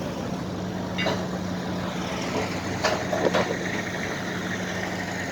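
A heavy engine idling steadily, with a few sharp knocks or clanks about a second in and again about three seconds in.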